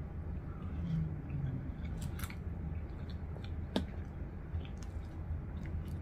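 A person chewing a mouthful of spaghetti, with a few short, sharp clicks of mouth and fork, over a low steady hum.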